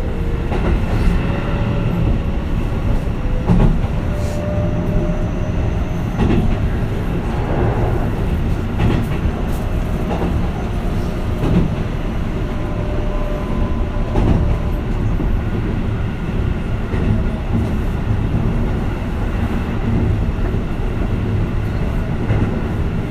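Keihan Katano Line commuter train running, heard from inside the car: a steady low rumble of wheels on track, with irregular clicks as the wheels pass over rail joints and a faint steady whine.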